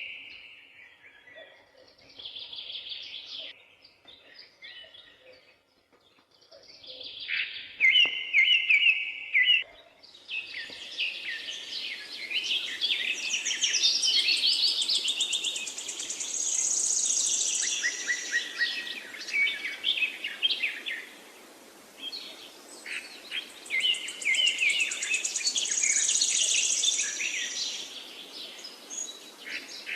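Songbirds singing and chirping in repeated short phrases. From about ten seconds in the chorus becomes denser, over a steady background hiss.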